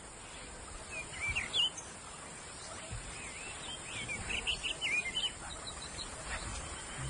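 Small birds chirping in quick, wavering high calls over a steady background hiss, in two spells: one about a second in and a longer one around four to five seconds in.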